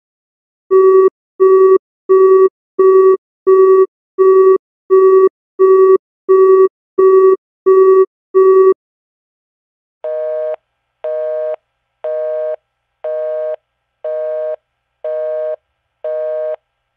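Telephone busy signals, two kinds one after the other. First a fast single-pitch busy tone of twelve short beeps, about three every two seconds. Then, after a short gap, a two-tone busy signal of the North American kind, seven beeps at one a second.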